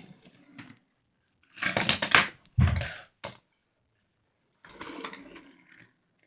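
Plastic toys being handled, clattering and knocking in two bursts, with one heavier thump about two and a half seconds in.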